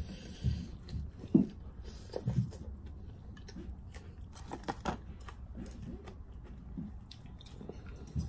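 A person chewing and eating noodle soup close to the microphone: a series of soft, short mouth and eating sounds at irregular intervals.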